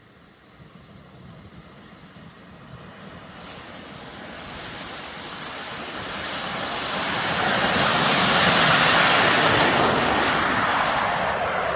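Twin Enjet-100 model jet turbines of an RC F-22, a rushing jet noise that grows steadily louder for about eight seconds, peaks, then begins to fade. A thin high whine climbs in the first second.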